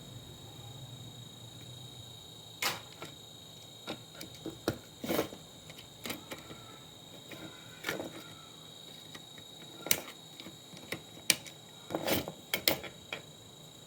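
Irregular sharp clicks and knocks, about a dozen, of parts and tools being handled while taking apart an old monitor. They begin after a couple of seconds of quiet, with a cluster of them near the end.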